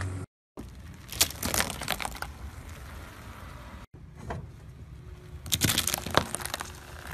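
A car tyre rolling over and crushing brittle objects on pavement, in short edited clips. There are crackling, snapping crunches about a second in, and again between five and six seconds in as a hollow yellow object is flattened into fragments.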